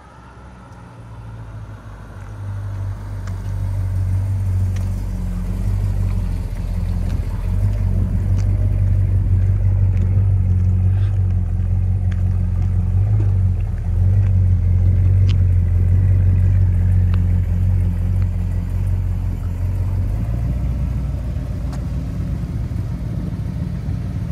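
The 1972 Chrysler New Yorker's 440 cubic-inch (7.2 litre) V8 rumbling as the car drives up at low speed. It grows louder over the first few seconds as the car approaches and eases off near the end as it draws up.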